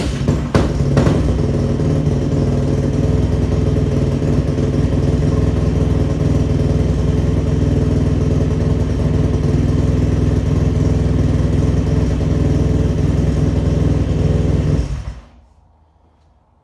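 2002 Yamaha WR426 dirt bike's single-cylinder four-stroke engine catching on a cold start with a few uneven strokes, then idling steadily. It dies away about fifteen seconds in.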